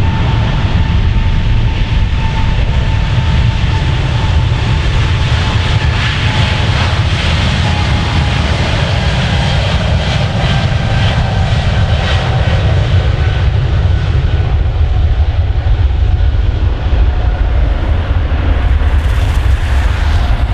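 Jet airliner's engines at takeoff power, a loud steady deep rumble with a whine that slowly falls in pitch as the aircraft passes.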